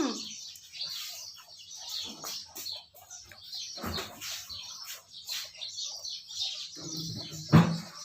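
Small birds chirping repeatedly in quick short calls, with a single louder low thump near the end.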